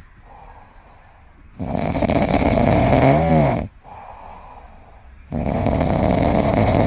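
Snoring: two long, loud snores of about two seconds each, with quieter breaths between them. The first snore ends in a wavering whine.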